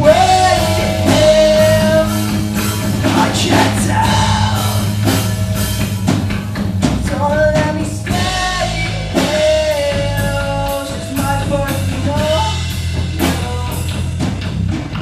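Rock band playing live: a singer holding long, bending notes over drum kit, bass and guitar.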